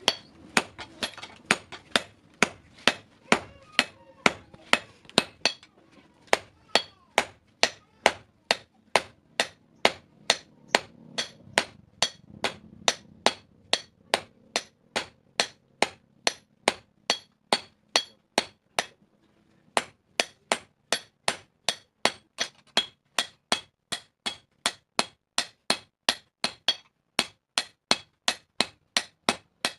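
Hammer blows on the steel blank of a hasua (sickle-style cutter) being forged on an anvil, a steady run of ringing metallic strikes about two to three a second, with a brief pause about two-thirds of the way through.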